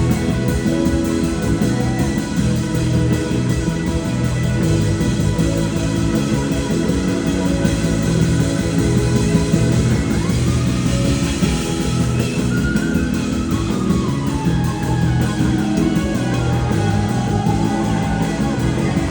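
Live band playing a slow soul-blues song, with a slide guitar lead gliding between notes over a steady bass and chords.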